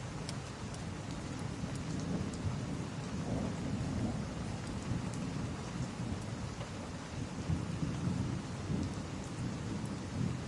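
Steady rain with a low, rolling rumble of thunder, and a few faint sharp crackles now and then.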